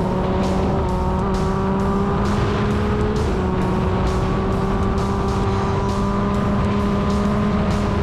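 Motorcycle engine running at steady high revs, its pitch holding nearly constant, under background music with a regular beat.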